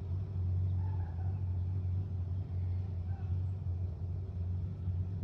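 A vehicle engine running steadily with a low, even rumble that holds one pitch, with no revving.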